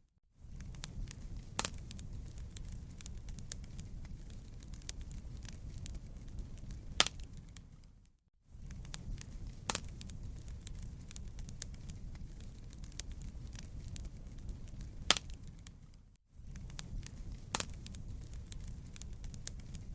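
Wood fire crackling, with irregular sharp pops and snaps over a steady low rumble. The sound cuts out for a moment twice, about eight and sixteen seconds in.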